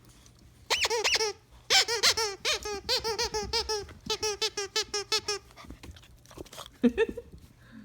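Blue Weimaraner puppies yelping in play: a brief burst of high-pitched yelps, then a quick run of them at about four a second for several seconds, with a couple more near the end.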